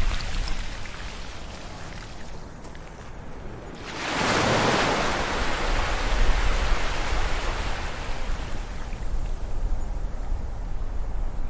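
Sea waves on a beach: the wash dies down, then a wave breaks about four seconds in and its surf hisses out slowly, over a steady low rumble.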